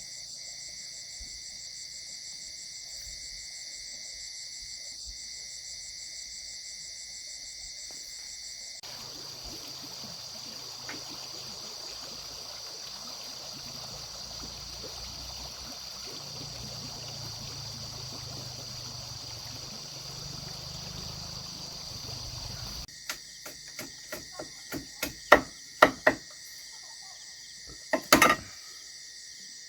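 Steady high-pitched chirring of crickets and other insects. In the middle a stretch of even rushing noise like running water joins it, and near the end comes a quick series of sharp knocks.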